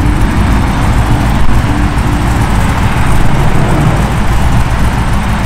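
Drag-racing car's engine running loudly at the strip, with a deep, uneven rumble.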